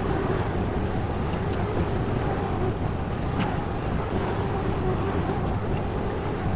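Honda gasoline engine of a Derette DRT450 mini skid steer running steadily while the machine works, with a couple of faint knocks.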